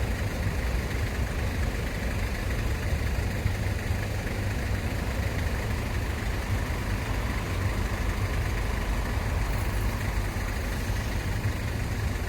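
A vehicle engine idling steadily, a deep low hum.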